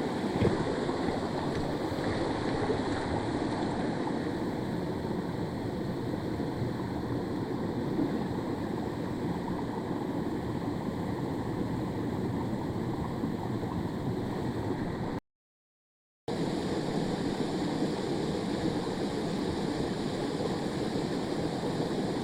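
Mountain stream rushing over rocks, a steady flow of water noise. It cuts out completely for about a second partway through, then resumes unchanged.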